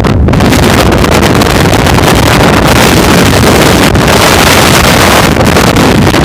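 Loud, harsh wind noise battering the microphone over the rumble of a moving off-road vehicle, a steady rush covering everything.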